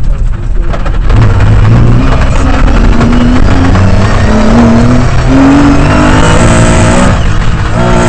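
Lancia Stratos V6 rally engine heard from inside the cockpit, pulling hard through the gears: the pitch climbs and drops back at each shift several times over, over the constant noise of the car on the gravel stage.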